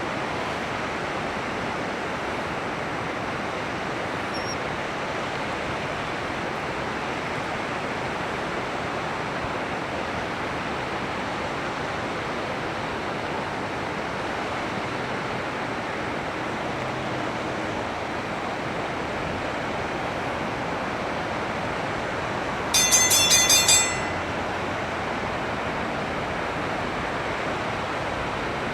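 Steady rush of flowing water, with a brief burst of rapid, shrill, high-pitched calls from a common kingfisher about 23 seconds in.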